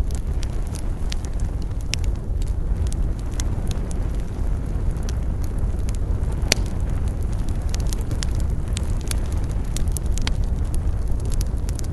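Wood campfire crackling and popping over a steady low rumble, with one loud pop about six and a half seconds in.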